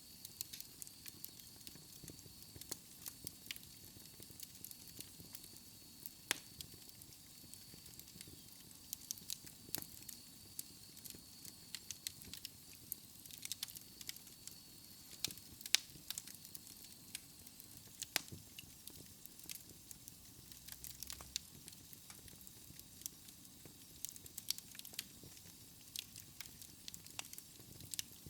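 Wood logs burning in a fireplace, crackling with frequent irregular sharp pops over a faint steady hiss. A thin, faint high whistle runs through the first half and fades out.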